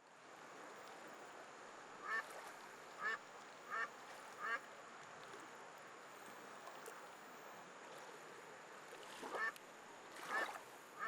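A bird calling: four short calls about a second apart, then two more near the end, over a steady background hiss.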